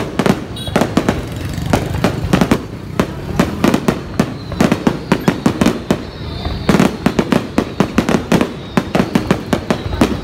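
Aerial fireworks bursting in rapid, continuous volleys of sharp bangs and crackles, several a second, with a short lull about six seconds in before a loud cluster.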